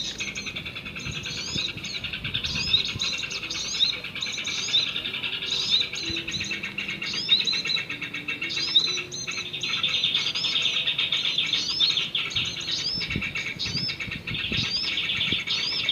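Small birds chirping continuously, with many short, quick, high chirps overlapping, several a second, like a small flock or a bird-trapper's lure call.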